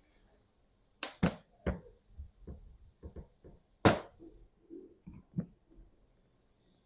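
Parts and tools being handled during work on an AD-9 air dryer valve: a series of sharp knocks and clicks, the loudest about four seconds in, with a faint hiss near the end.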